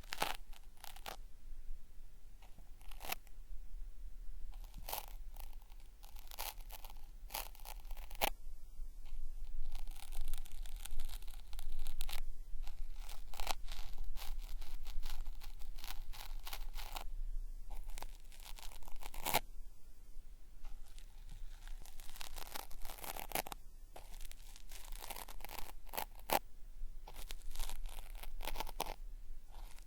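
Cotton swab rubbed and scraped against a binaural microphone's ear: an ear-cleaning sound made to sound like peeling, crackly and ripping in quick, irregular strokes.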